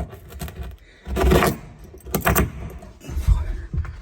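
Loose metal hardware clinking and rattling in several separate bursts, as threaded-rod hangers and their fittings are handled.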